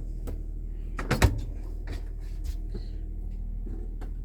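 Steady low hum of a running Cummins Onan 7.5 kW Quiet Diesel generator, with a few light knocks and clicks from handling controls, the loudest just over a second in.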